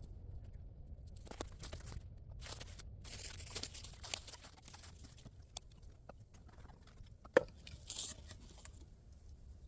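Crunching and rustling handling noises with scattered clicks, and one sharp click about seven seconds in.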